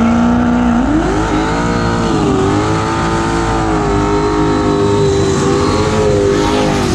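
Drag race car engine held at steady revs, then climbing sharply about a second in and holding high with a slight waver for several seconds before the revs drop off abruptly near the end.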